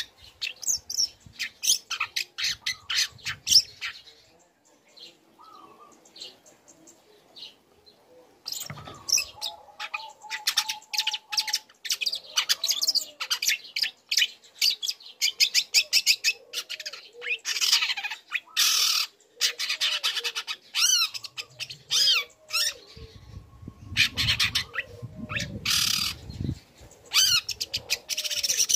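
Young long-tailed shrike (cendet) singing: fast runs of sharp, varied chirps and sweeping notes, broken by a pause of a few seconds near the start. A softer, lower arched note repeats about every second and a half behind the song in the second half.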